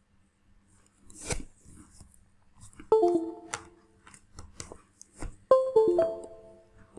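A dull thump, then two short groups of ringing notes, each a few pitches struck in quick succession and dying away, like a chime, with light clicks in between.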